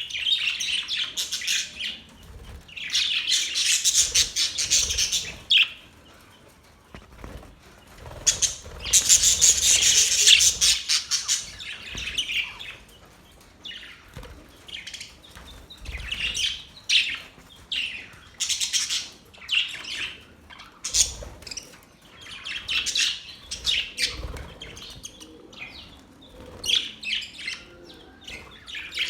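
Budgerigars chirping and chattering in irregular bursts, with short quieter gaps between. The loudest stretches are a few seconds in and around ten seconds in.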